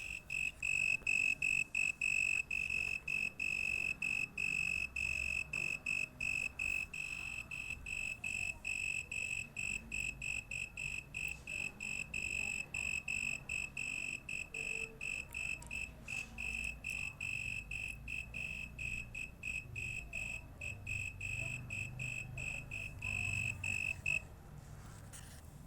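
A night insect singing: a steady, high-pitched, buzzy trill held at one pitch, broken by short gaps a few times a second. It stops suddenly near the end.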